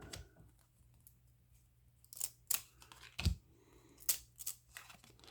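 Trading cards being handled and flipped through, giving a string of short, sharp clicks and snaps that start about two seconds in.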